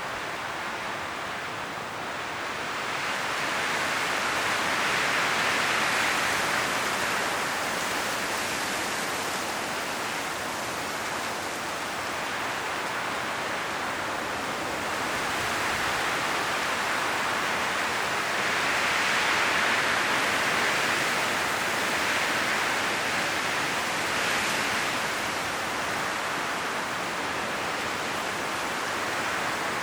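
Wind blowing through forest trees, the rustle of leaves rising and falling in gusts every few seconds.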